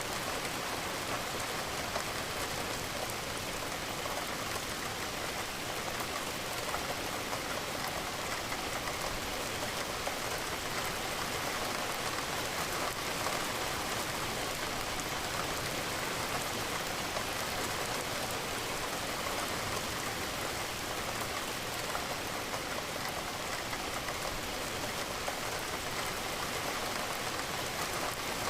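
Steady rain falling and pattering on a surface, an even rushing hiss with fine drop ticks.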